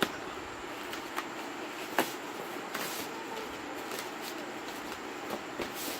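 A packaging box being opened by hand: a few scattered clicks and taps of handling, the sharpest about two seconds in, over a steady background hiss.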